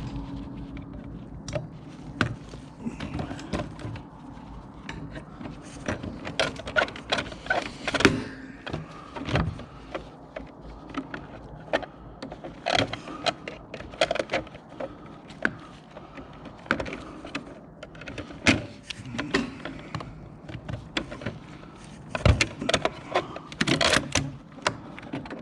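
Irregular knocks, clanks and clatter of scrap being handled and moved, many sharp impacts spread through the whole stretch.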